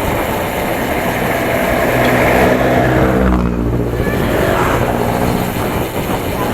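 A motor vehicle passes close by, its engine note swelling and fading over about three seconds, over a steady rush of wind noise.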